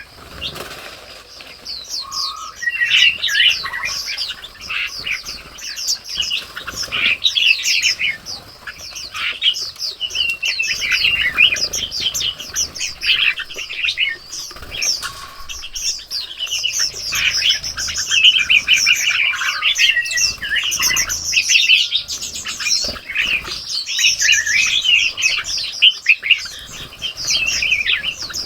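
A dense chorus of many birds chirping and calling continuously, short quick chirps overlapping with longer sweeping calls.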